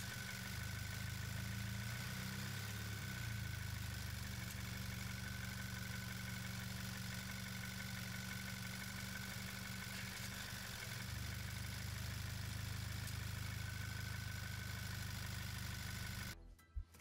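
Volkswagen Golf GTI's 2.0-litre turbocharged four-cylinder engine idling steadily, heard with the hood open. The engine's PCV valve diaphragm is torn and has failed. The idle stops abruptly near the end.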